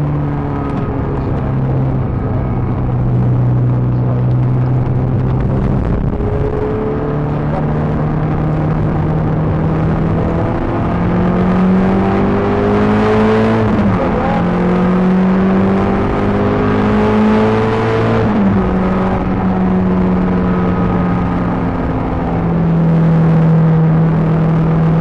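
Peugeot 306 GTi-6's 2.0-litre four-cylinder engine running hard on track, heard from inside the car. It holds steady revs, steps up a few seconds in, then twice climbs in pitch and drops sharply, as at an upshift.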